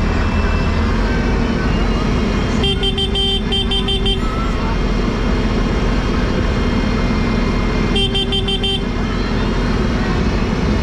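Tractor engine running steadily, with a vehicle horn sounding twice over it: a stretch of about a second and a half a few seconds in, and a shorter one about eight seconds in.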